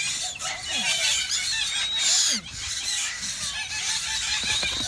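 Many birds chirping busily, with a few lower calls that fall in pitch.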